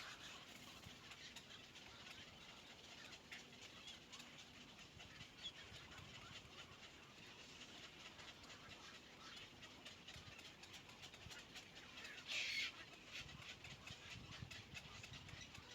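Faint outdoor ambience with scattered small clicks and faint bird sounds, and one brief louder noise about twelve seconds in.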